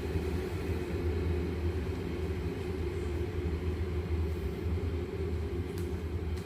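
Steady low machine hum with no change in pitch.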